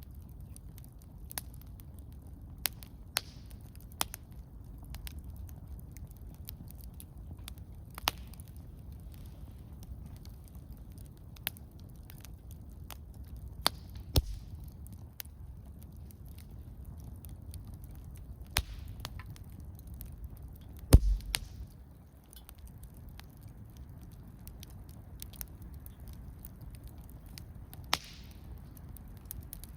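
Wood campfire crackling: sparse sharp pops and snaps every second or two over a low steady rumble of the burning fire. One louder pop with a low thump comes about two-thirds of the way through.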